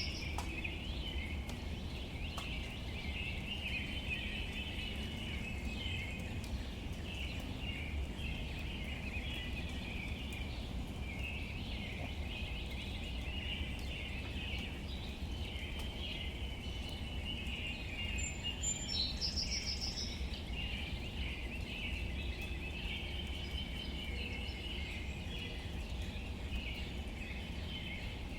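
Outdoor ambience of steady soft rain on leaves under continuous bird chirping, with a short, higher bird call about two-thirds of the way through.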